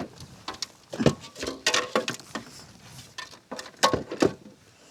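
About a dozen irregular knocks and clatters, some close together, from a caught spotted bass being handled and flopping in the kayak.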